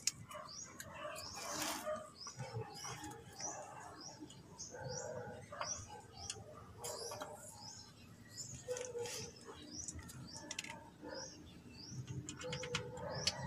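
Small birds chirping over and over in quick short notes, with other bird calls lower down, and a few light clicks from the slave cylinder being handled into place.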